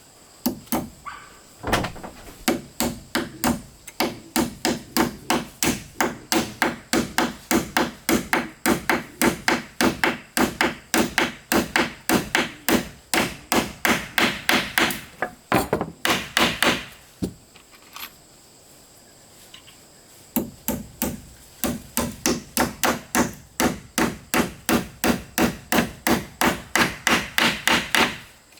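Hammer striking wood in a steady rhythm, about two to three blows a second, in two long runs with a pause of a few seconds in the middle.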